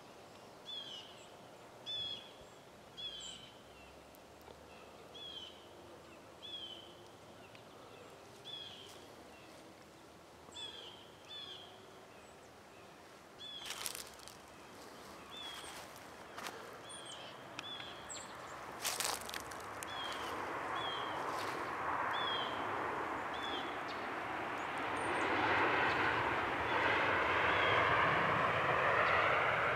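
A bird calling over and over, a short high chirp roughly once a second. A couple of sharp clicks fall in the middle, and a vehicle's noise builds up over the last several seconds.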